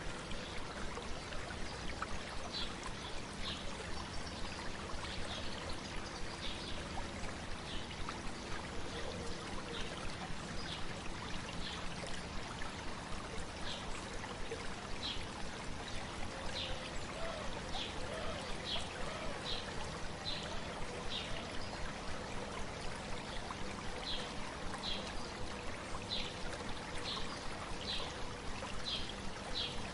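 A river or stream flowing steadily, with a bird's short high chirps repeating every half second to a second from a few seconds in.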